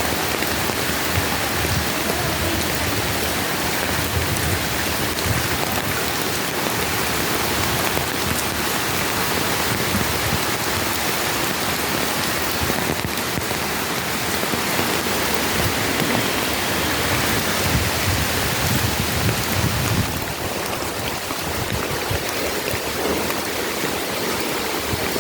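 Heavy rain falling steadily in a storm. It eases a little about twenty seconds in.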